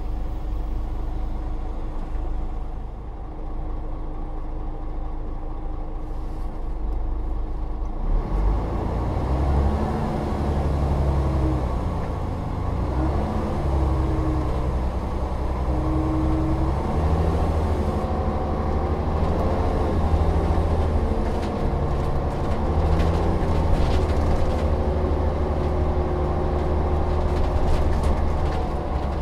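Volvo Olympian double-decker bus's diesel engine idling steadily, then from about eight seconds in pulling away and accelerating, its pitch rising and dropping back several times as it goes up through the gears.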